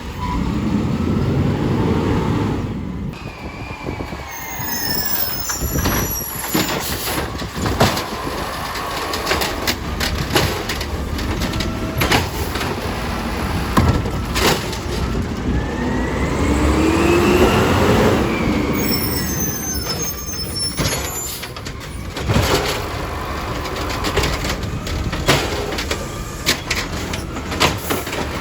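City garbage truck at work: its engine runs and revs under load while a whine rises and falls in pitch, with repeated knocks and bangs throughout.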